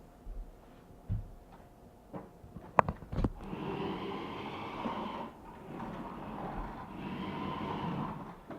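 Remote-control stunt car's electric motors whirring as it drives, after a few sharp knocks and clicks in the first three seconds.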